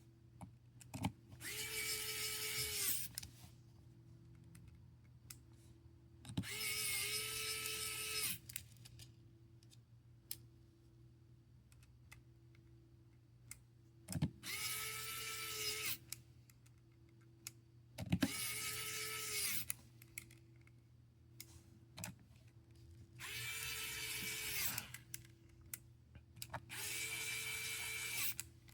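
Small electric precision screwdriver running in six short bursts of a second or two each, a steady whine driving screws back into the phone during reassembly, with light clicks in between.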